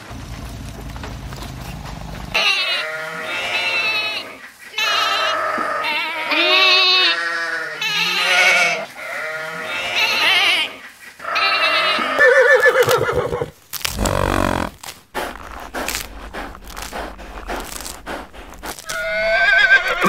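Sheep bleating over and over, about half a dozen calls in a row, each one wavering in pitch. Other, more mixed animal noises follow in the second half, with a rising call near the end.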